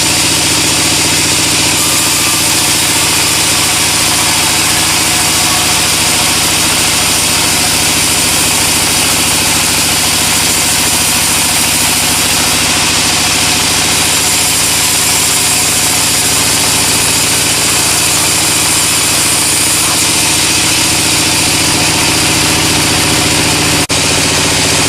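Sawmill machinery running steadily: an engine-driven saw with a constant hum and hiss, and a brief dip near the end.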